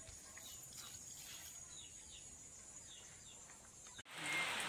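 Faint birds chirping in short falling notes, a few a second. About four seconds in, a sudden cut to steady rain hiss.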